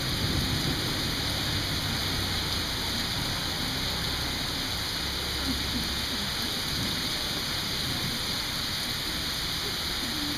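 Steady heavy rain hissing without a break, with a low thunder rumble fading away in the first few seconds.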